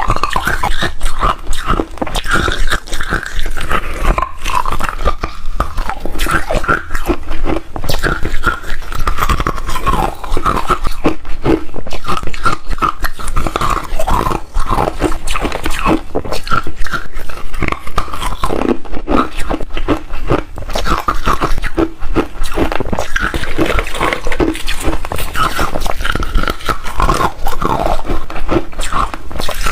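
Hard refrozen ice being bitten and chewed close to the microphone: a dense, continuous run of loud, sharp crunches and cracks.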